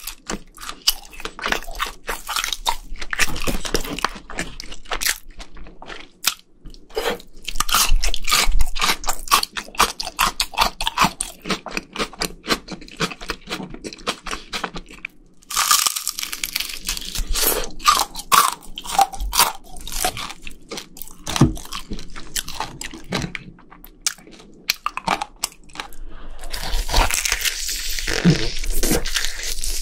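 A person chewing crispy fried food close to the microphones, with dense crunching throughout. Near the end a bite into a fried chicken drumstick brings a stretch of louder, denser crunching.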